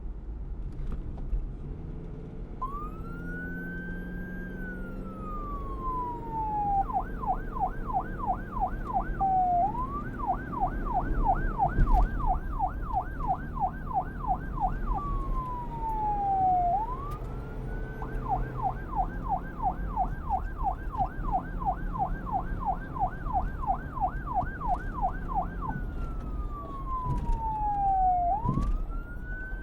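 Emergency vehicle siren alternating between a slow rising and falling wail and a fast yelp of about three to four sweeps a second, over a low engine and road rumble. The siren starts a few seconds in.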